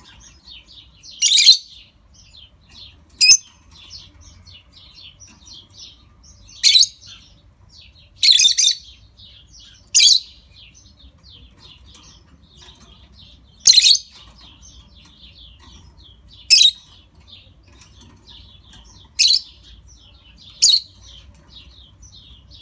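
A pair of lovebirds chattering: a constant stream of quick, high chirps, broken every few seconds by short, loud, high calls, nine in all.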